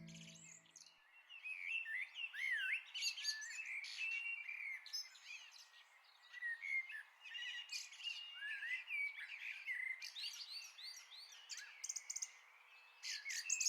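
Several small songbirds chirping and singing together, a busy mix of quick whistled notes, trills and up-and-down glides, with short lulls about six seconds in and near the end.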